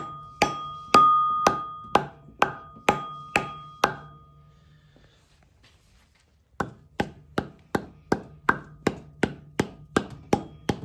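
Repeated hammer taps against the end of a VW Beetle engine's crankshaft, about two a second with a ringing metallic tone, driving the crank to check its end play on the dial gauge. The tapping stops for a couple of seconds in the middle, then resumes a little faster.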